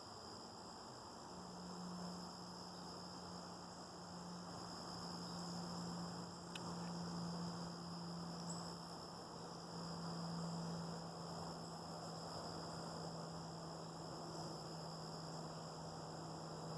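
Faint outdoor ambience: a steady low hum that swells and fades slightly, under a steady high-pitched drone of insects such as crickets.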